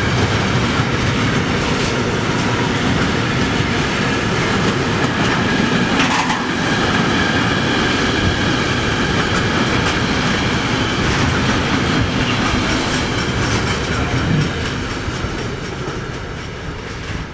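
Container freight train wagons passing at speed: wheels rumbling and clattering over the rail joints, with thin steady high ringing above. The sound eases off near the end as the last wagons go by.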